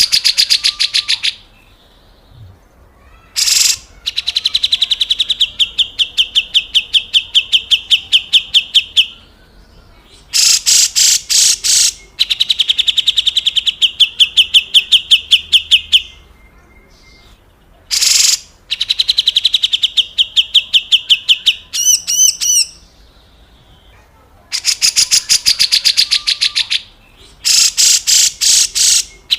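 Grey-cheeked bulbul (cucak jenggot) giving its harsh 'besetan kasar' calls: repeated bursts of fast rattling pulses, each one to three seconds long and separated by short pauses. A short twittering phrase comes about two-thirds of the way through.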